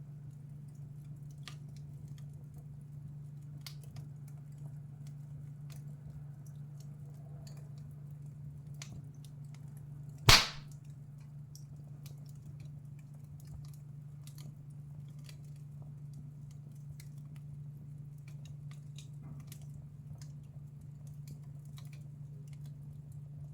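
Wood fire in a fireplace crackling with scattered faint ticks and one loud, sharp pop about ten seconds in, over a steady low hum.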